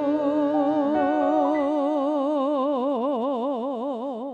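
Female tango singer holding a long sustained note with a vibrato that widens as it goes, over bandoneon and piano accompaniment. The note fades near the end.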